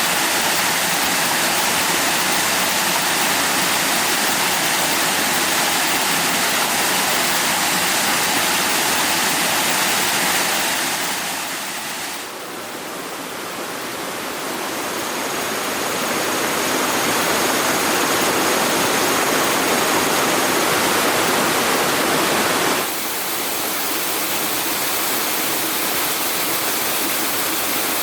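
Steady rushing water, like a stream or small waterfall, that shifts abruptly in level and tone twice.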